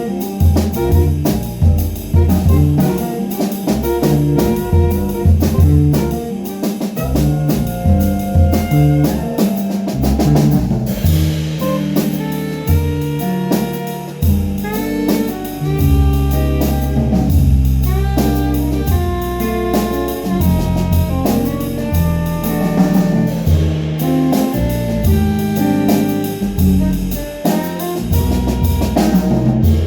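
Jazz band playing an instrumental tune: saxophone carrying the melody over drum kit and a walking bass line.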